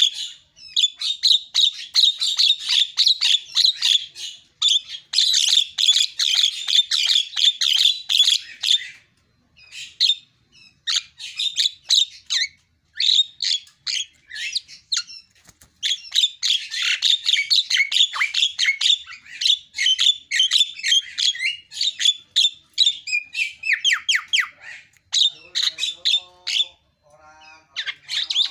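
A Javan myna (jalak kebo) in full song: fast, harsh chattering and squawky notes in long runs broken by short pauses. Some lower, buzzy notes come near the end.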